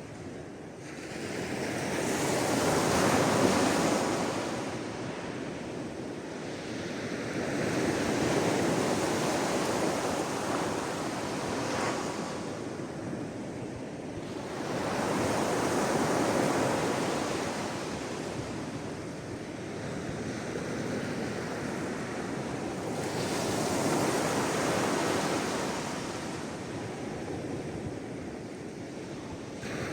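Sea waves washing onto a shore: a continuous wash of surf that swells and subsides every several seconds as each wave comes in.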